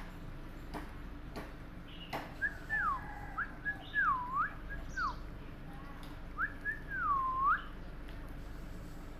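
Pet parrot whistling: a series of clear swooping whistles that dip down and rise back up, starting a couple of seconds in and coming again in a second group, after a few light clicks.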